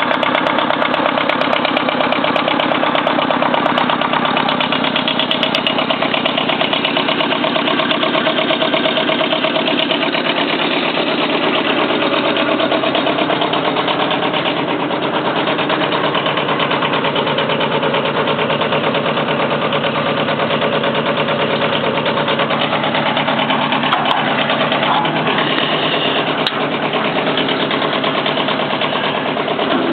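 Kubota engine of a homemade tractor running steadily with a fast, even beat, holding the same speed throughout.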